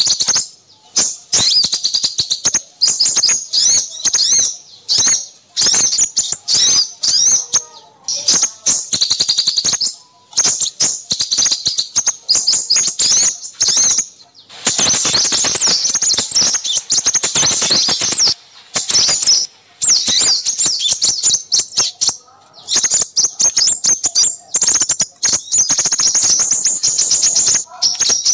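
A lure recording of many small songbirds calling at once: rapid, high-pitched, overlapping chirps and twitters in a noisy chorus, with brief gaps. It is a mixed small-bird lure call for drawing in crimson sunbirds.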